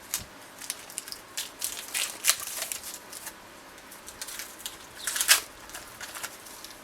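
Close handling noises: plastic crinkling and rustling with a run of small crackles and clicks as the new fork oil seal and the cling-wrapped fork tube are handled, loudest in a short cluster about five seconds in.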